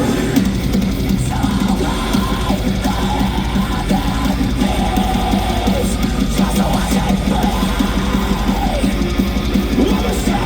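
Live metalcore band playing loud, with distorted electric guitars, bass and a pounding drum kit in an instrumental passage without vocals.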